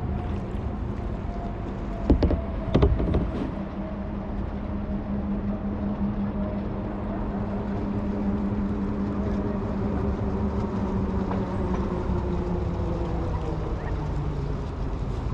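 A distant engine drone with a steady pitch that slowly falls in the second half, as something motorised passes. Two sharp knocks come about two and three seconds in.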